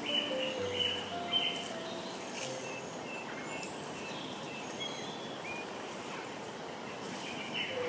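Outdoor woodland ambience: a steady hiss with scattered short bird chirps. A few held musical notes trail off in the first second or so.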